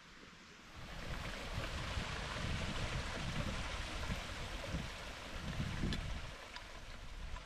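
Wind gusting over the microphone: a rushing hiss with irregular low rumbles that rises about a second in and eases off near the end.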